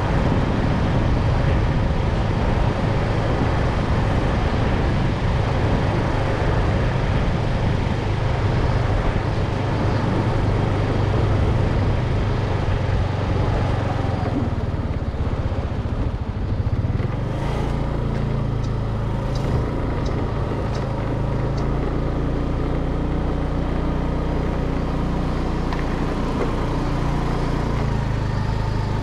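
Steady motor-vehicle engine and road noise, its low hum shifting partway through.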